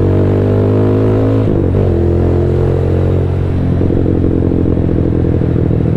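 Rusi Diablo 250cc motorcycle engine running loud through an exhaust with no silencer while riding. Its note shifts about a second and a half in and again near four seconds in.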